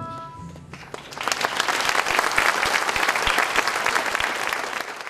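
Audience applauding, a dense clapping that swells up about a second in and holds steady. Just before it, the last held chord of the orchestral accompaniment dies away.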